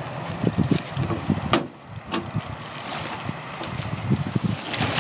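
Wind buffeting the microphone in irregular low gusts, with a sharp click about one and a half seconds in.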